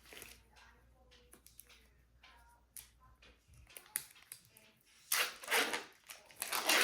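Kitchen handling sounds: scattered light clicks and taps, then two louder rustling, crunching bursts in the last two seconds. A low hum underneath stops about halfway through.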